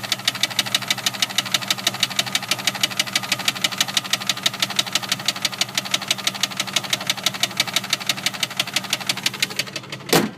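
1999 Jeep Grand Cherokee's 4.0 litre straight-six engine running with a fast, even knock on every beat, which the owner thinks comes from below the engine. A single louder short noise comes near the end.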